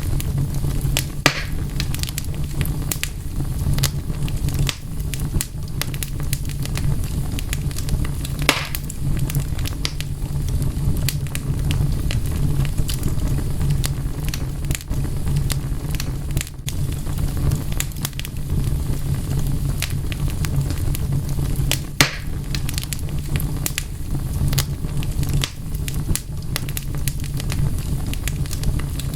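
Wood fire crackling steadily over a low rumble of flames, with many small ticks and a few sharper pops, the loudest about 22 seconds in.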